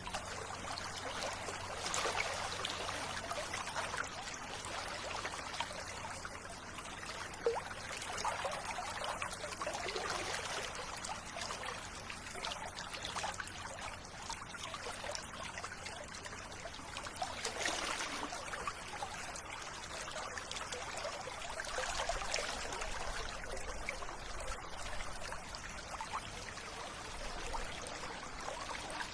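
River water flowing and trickling steadily, swelling a little every few seconds.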